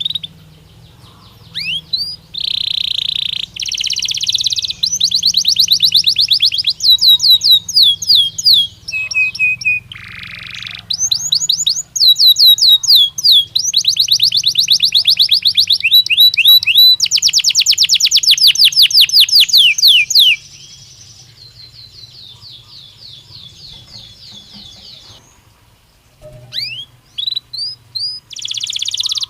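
Belgian canary singing a long, continuous song of rapid trills, each phrase a fast run of repeated sweeping notes, changing from one phrase to the next. Around two-thirds of the way through the song drops to a softer trill, then the loud trills resume near the end.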